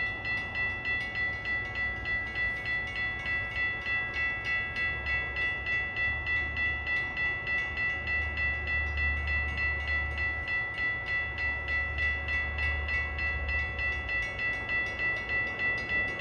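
Railroad grade-crossing bell ringing steadily at about three to four strokes a second, the warning that a train is approaching, over a low rumble that comes and goes.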